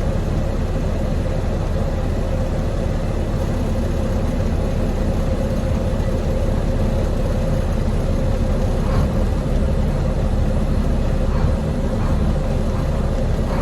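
Semi-truck diesel engine idling steadily, a constant low rumble with a faint steady hum above it.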